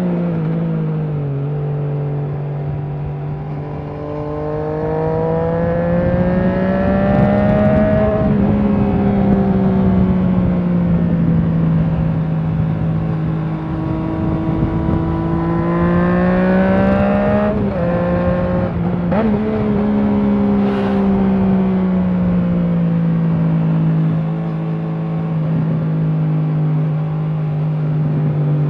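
Triumph Trident 660's inline three-cylinder engine through a Leo Vince aftermarket exhaust while riding: the revs drop early, climb steadily under acceleration, hold at a cruise, climb again to a brief break in the note about two-thirds through as a gear is changed, then slowly ease off. Wind rush runs underneath.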